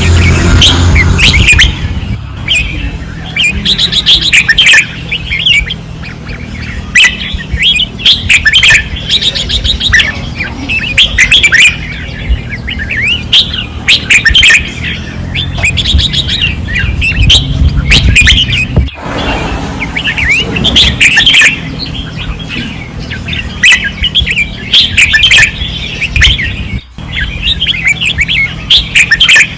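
Red-whiskered bulbuls singing loudly and insistently, in repeated bursts of quick, chirpy song every second or two, over a steady low hum.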